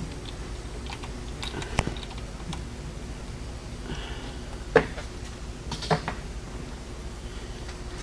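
A few scattered sharp metallic clicks and clinks of a 17 mm Allen socket and wrench turning out the already-loosened plug over the oil pressure relief valve on a Cummins ISX engine.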